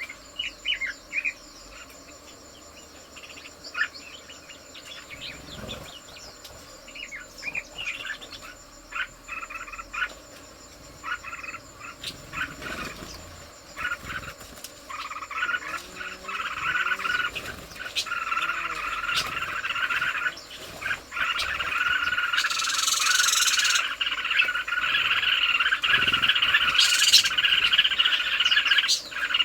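Small birds chirping: scattered short calls at first, then from about halfway a dense, continuous twittering chatter that grows louder toward the end.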